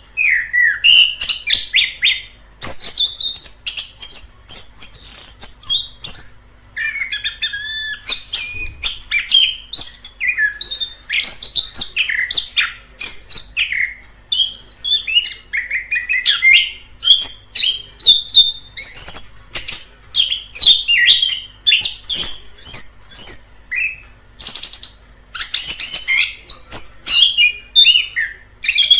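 Orange-headed thrush singing a rapid, varied song of short whistled and warbled phrases, with only brief pauses between runs.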